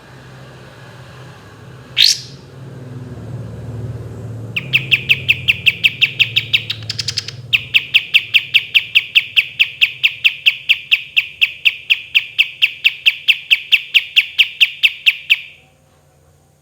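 Kapas tembak bulbul singing: a quick rising whistle, then a long fast trill of evenly repeated clear notes, about four or five a second, broken briefly once and stopping suddenly near the end.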